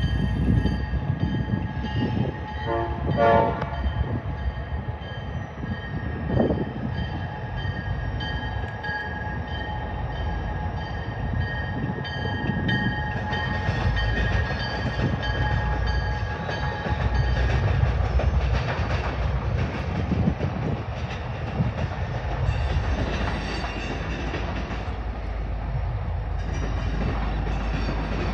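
Canadian Pacific diesel freight locomotive passing with its engine running, followed by freight cars rumbling and clacking over the rails. A brief horn note sounds about three seconds in.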